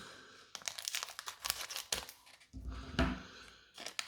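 A foil Pokémon booster pack wrapper being torn open and crinkled by hand, in two spells of dense crackling.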